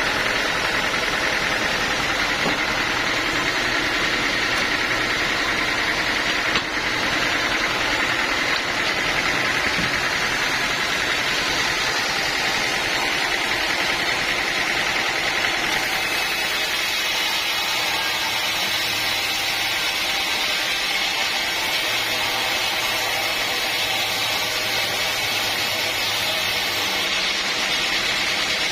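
Sawmill machinery running steadily, an engine-like drone that holds at an even level.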